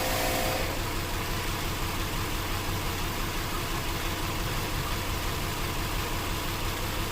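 2008 Jeep Grand Cherokee's 5.7 L Hemi V8 idling steadily. It is running rough, misfiring on cylinders 4, 6 and 7, the cylinders with multi-displacement (MDS) solenoids that are being wrongly held disabled.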